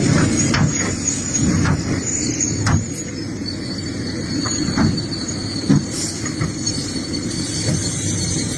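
Excavator digging in rocky ground: the engine runs steadily under load, and the bucket knocks and scrapes against rock every second or so, over a thin, steady high squeal.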